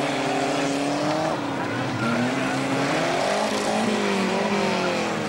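Engines of several battered autocross cars running and revving, their pitches overlapping and rising and falling.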